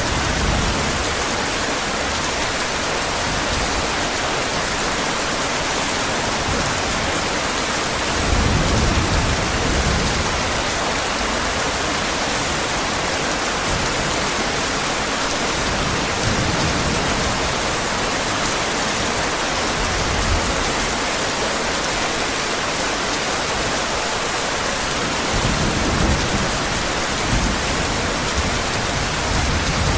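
Heavy, steady rain, with low rolls of thunder about eight seconds in and again near the end.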